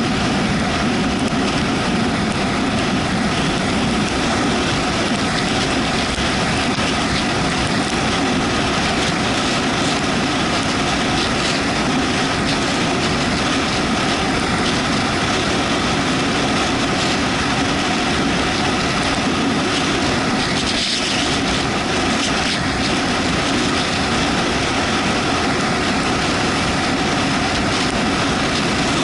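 Steady rush of wind and road noise while riding a Yamaha MT-125 motorcycle on a wet road, with the bike's single-cylinder engine running underneath.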